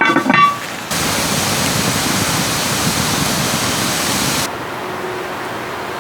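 Steady rushing water, which cuts suddenly to a quieter rush about four and a half seconds in. It opens with the tail of a few pitched notes in the first second.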